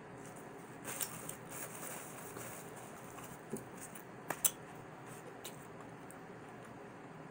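A person quietly chewing pizza, with a scattering of soft mouth clicks and smacks. The two sharpest clicks come close together a little past halfway. A steady faint hiss runs underneath.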